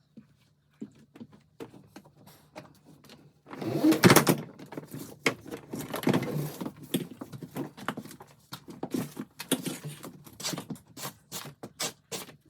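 A run of knocks, clatters and scraping, loudest about four seconds in, over a faint steady low hum.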